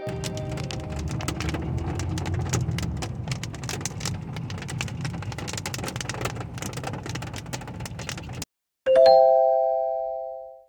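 Rain falling, a steady hiss full of small drop hits, which cuts off suddenly. Then a single bright chime, like a doorbell tone, strikes and rings out as it fades.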